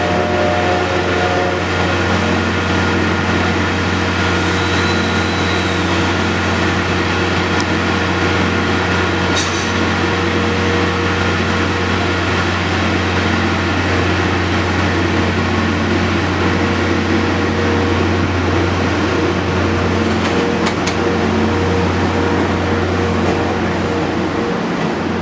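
Train of blue passenger coaches moving slowly out of a station close by, with a loud, steady mechanical drone and rolling noise throughout.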